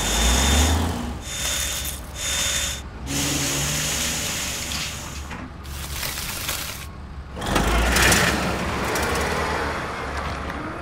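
Added engine and machinery sound effect for a toy harvester truck at work: a low rumble under a noisy mechanical whirr. It breaks off briefly several times and swells again about eight seconds in.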